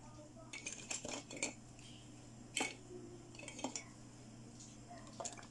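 Small hard plastic toy pieces clicking and clacking as they are handled and set down among other plastic toys: a run of quick clicks in the first second and a half, a sharp single click in the middle, and a few more after.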